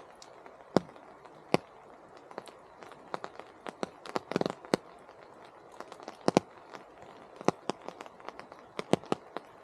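Rain in a temperate rainforest: large drops from the canopy falling as irregular sharp taps, with a brief flurry of them a little before the middle, over a steady soft hiss.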